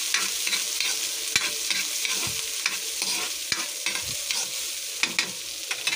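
Garlic, onions and chilies sizzling in oil in a pan, with a spatula scraping and clicking against the pan at irregular moments as they are stirred.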